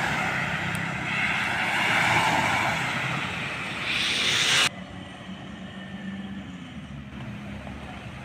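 Road traffic with a truck going by: loud engine and tyre noise that swells and then cuts off abruptly about halfway through. It is followed by a quieter, steady low diesel engine drone.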